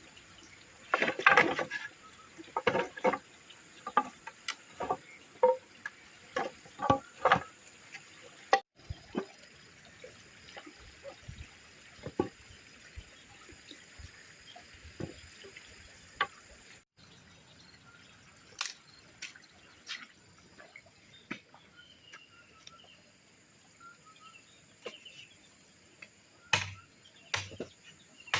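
Water splashing and dripping while work is done at a stream-fed water intake, with a run of sharp knocks and splashes in the first few seconds, then softer trickling and occasional clicks, over a faint steady insect drone.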